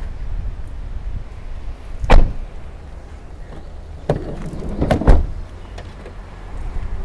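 Car doors of a 2006 Toyota Raum being shut. One sharp thud comes about two seconds in. Then about a second of rolling, rattling noise ends in a second thud near five seconds in.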